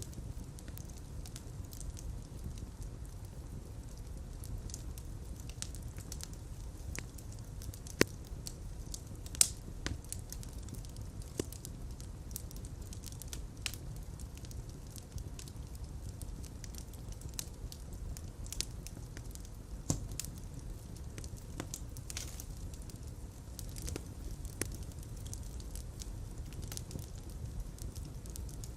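Fire crackling in a fireplace: a steady low rumble with many small irregular crackles and a few sharper, louder pops, about eight seconds in, just after nine seconds and around twenty seconds.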